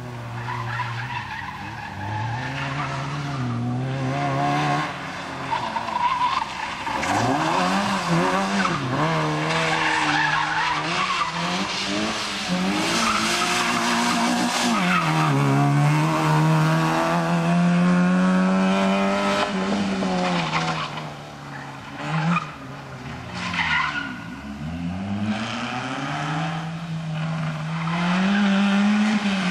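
A small rally-prepared Fiat Cinquecento driven flat out around a tight cone course: its engine revs rise and fall again and again, dropping sharply several times as the driver lifts for the turns. Tyres squeal and scrub on the concrete between the revs.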